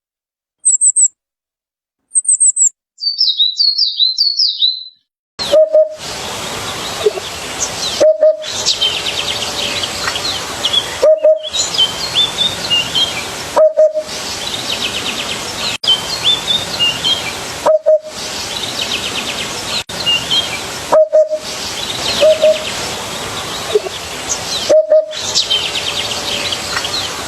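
Small songbirds chirping and singing. First come short, high, falling chirps on a silent background. From about five seconds in, trilling song sits over a steady hiss, broken by brief gaps every few seconds.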